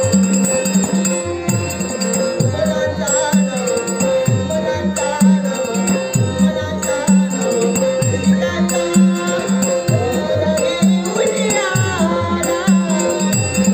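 Instrumental passage of a Dashavatar stage song: a harmonium holds steady notes over regular hand-drum strokes whose bass slides downward, with jingling cymbals. A voice sings a short phrase about two-thirds of the way through.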